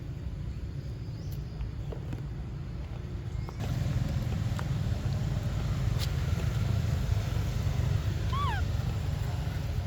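Steady low rumble like wind on the microphone, stepping up in level about three and a half seconds in, with a few faint clicks. Near the end comes one short high animal call that falls in pitch.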